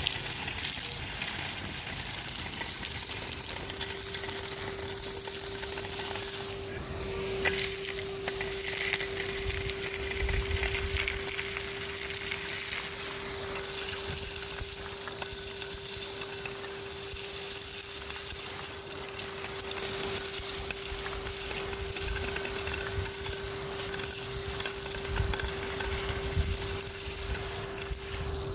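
Henry HVR 200-22 vacuum cleaner running with a steady whine as it sucks up gritty street debris, which crackles through it.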